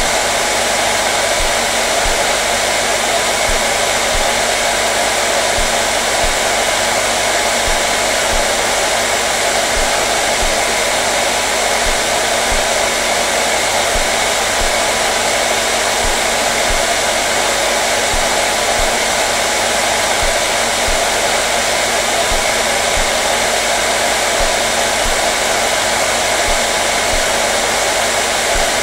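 Hair dryer running continuously with a steady, even rushing hiss of blown air and motor whir that does not change.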